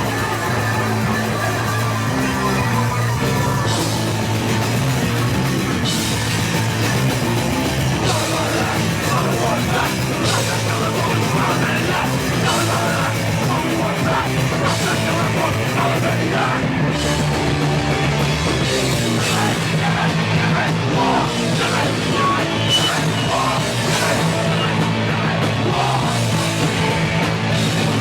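Loud, fast punk rock music: distorted electric guitar and a drum kit, with yelled vocals.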